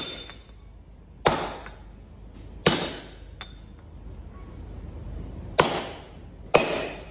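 Five sharp impacts at uneven intervals, each dying away quickly, the first leaving a brief high ring.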